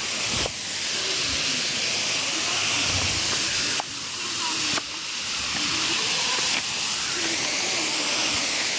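A waterfall's steady rush of falling water, a loud, hissy roar. The level drops abruptly several times and swells back.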